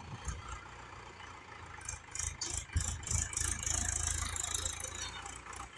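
Mahindra Bhoomiputra 415 tractor engine idling low and steady. About two seconds in, a gritty hissing rattle rises over it and runs for about three seconds.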